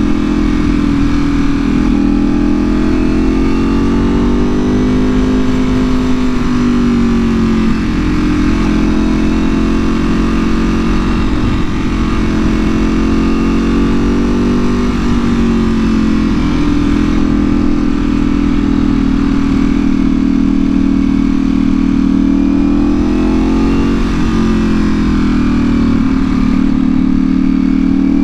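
Ducati Panigale V4R's 998 cc V4 engine through an Akrapovic full exhaust under way at a fairly steady cruise. The engine note drifts gently up and down with the throttle, with no hard revs or gear changes. Wind noise on the microphone runs underneath.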